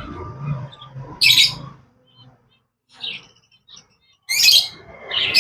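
Caged small birds chirping in several short, high bursts with quiet gaps between.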